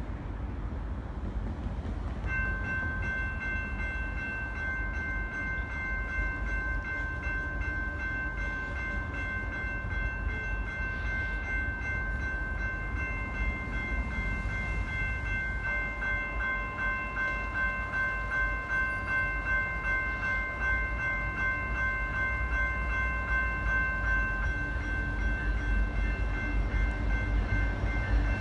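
Approaching BNSF coal train: a low rumble that slowly grows louder, with a steady high ringing of several tones starting about two seconds in and running on as the train nears.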